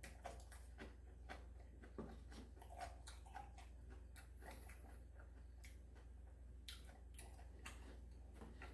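Faint eating sounds: quiet chewing and scattered soft clicks of a spoon or chopsticks against food and plastic lunch-box containers, irregular and a few a second, over a steady low hum.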